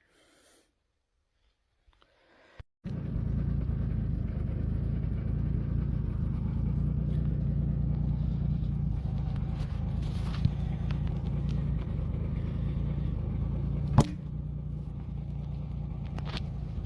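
An engine starts being heard about three seconds in after near silence and runs steadily at a low, even pitch, with one sharp click near the end.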